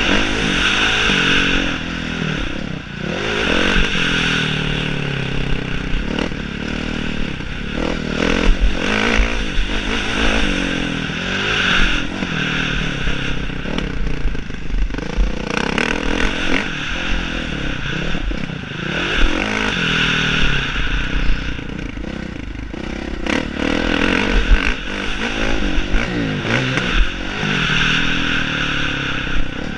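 Motocross bike engine revving up and easing off over and over, its pitch climbing and dropping every few seconds, with clattering knocks and scraping throughout.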